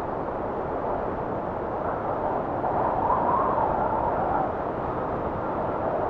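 Arctic blizzard wind blowing steadily as a rushing hiss. About three seconds in, a gust swells with a faint whistle, then eases back.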